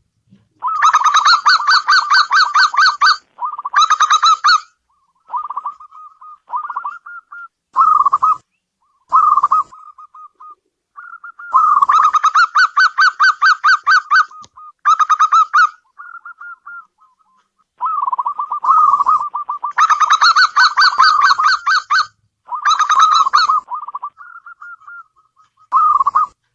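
Zebra dove (perkutut) cooing: bouts of rapid, pulsing coo notes, each bout lasting one to four seconds, repeated with short pauses and softer single phrases in between.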